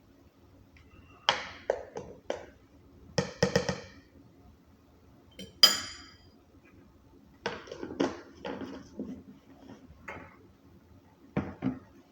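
Tableware being handled: a scattered series of knocks and clinks, with one bright, ringing clink a little past halfway.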